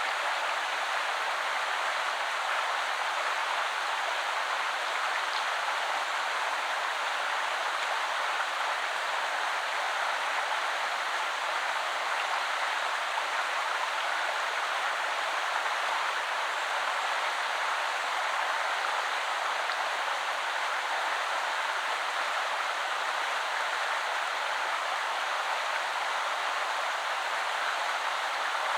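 Shallow woodland river flowing steadily, an even rushing of water over stones.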